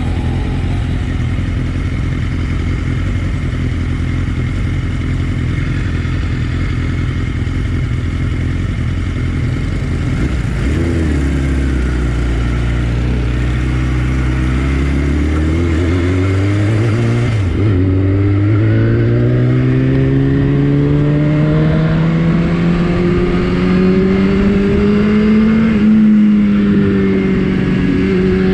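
Superbike engine with an aftermarket Akrapovič exhaust, running steadily at first. From about a third of the way in, its pitch climbs slowly and steadily, with two brief dips, as engine speed rises.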